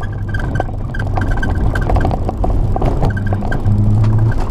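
Mazda MX-3's stock 1.6-litre four-cylinder engine pulling hard, heard from inside the cabin at rally pace, with frequent short knocks over the engine note. The engine note is steady and grows louder from about three and a half seconds in.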